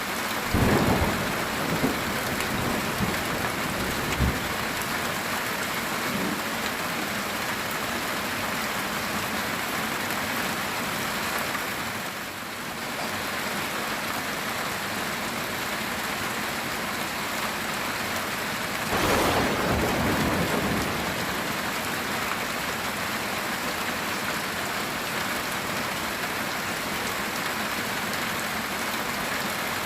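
Heavy rain falling steadily on a metal tin roof. Thunder cracks several times in the first few seconds and rolls once more, louder and longer, about twenty seconds in.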